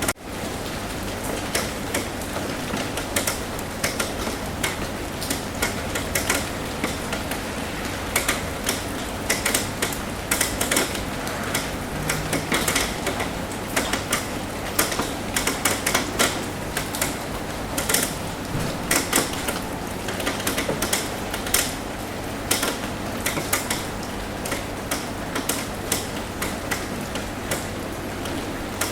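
Rain on a roof: a steady hiss of rainfall with many sharp, irregular drop taps over it.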